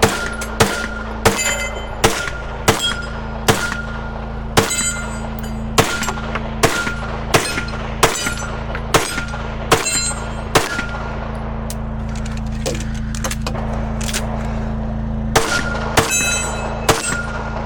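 Gunfire in a steady string of single shots, a little under a second apart, about fifteen of them, then a pause of several seconds and five more quick shots near the end; a short ringing follows many of the shots. A steady low hum runs underneath.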